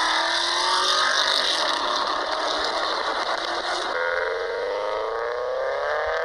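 A car engine running under load, its pitch climbing slowly as it accelerates. The sound changes abruptly about four seconds in, then goes on rising.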